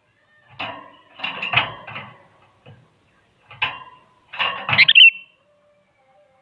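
Sooty-headed bulbul calling in quick, harsh chattering bursts, four bursts in all. The loudest comes about five seconds in and ends on a short warbled note.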